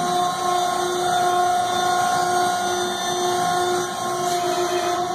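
Baler's hydraulic power unit running steadily, a constant whine over a low mechanical rumble, as it drives the door open.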